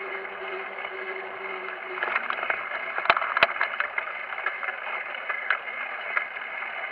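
Steady rolling and wind noise of a bicycle ride, with a run of sharp rattling clicks about two to four seconds in, two of them loudest, and lighter ticks after.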